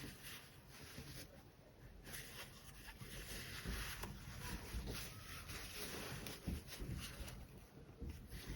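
Faint rustling and handling noises of fabric being worked by hand, with a couple of soft knocks in the second half.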